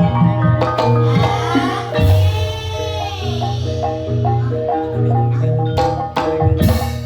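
Javanese gamelan-style ensemble music of the kind that accompanies ebeg: quick mallet-struck pitched notes over a deep held tone, with several sharp drum strokes.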